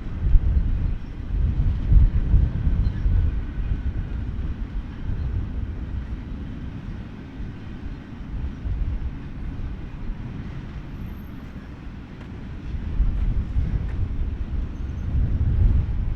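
BNSF freight train's rail cars rolling past, a low, uneven rumble that eases off around the middle and swells again near the end.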